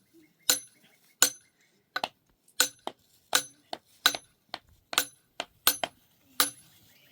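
A metal object struck again and again, about nine sharp ringing clinks at a steady pace of roughly one every three-quarters of a second.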